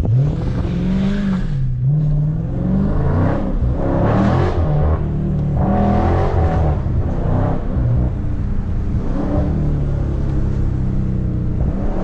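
Dodge Scat Pack's 6.4-litre HEMI V8 accelerating hard, its revs rising and falling several times as it pulls and shifts.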